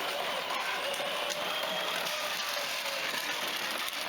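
A child's battery-powered ride-on motorbike running: the small electric motor and plastic gearbox give a steady whirring, grinding hum.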